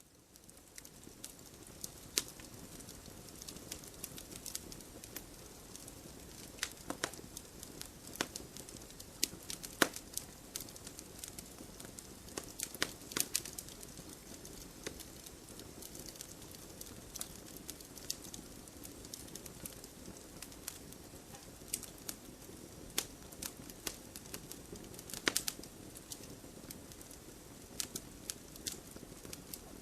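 Campfire burning: wood crackling with frequent sharp pops and snaps, irregularly spaced, over a steady low hiss of the flames.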